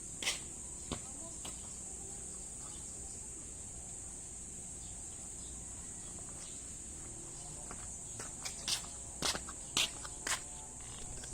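Steady, high-pitched insect chorus. A few sharp clicks or taps sound over it, one near the start and several in quick succession near the end.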